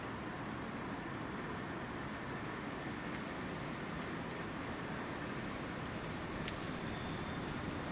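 A train approaching on the line: a steady rumble that grows louder, with a thin high-pitched whine from the rails or wheels setting in about three seconds in and holding steady.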